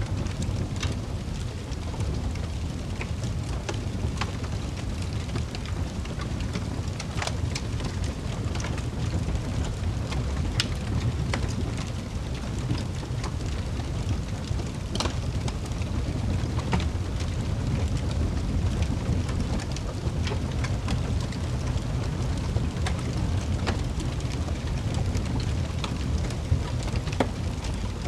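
Wood fire burning in a fireplace: a steady low rumble with scattered sharp crackles and pops, a few of them louder than the rest.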